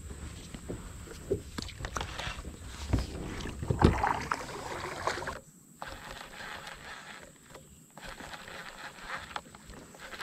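Kayak being paddled: paddle strokes in the water with a few knocks, the loudest swell about four seconds in, over a low rumble that drops away about halfway through.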